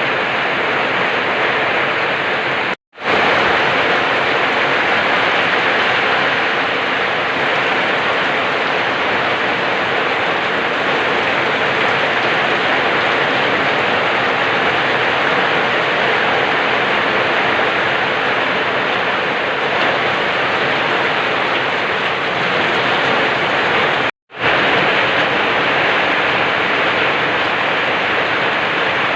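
Steady rainfall, an even unbroken hiss that cuts out to silence for an instant twice, about three seconds in and again about five seconds before the end.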